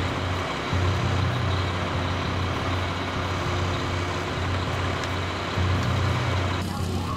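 A heavy truck's engine running steadily with a low hum. The sound changes abruptly near the end.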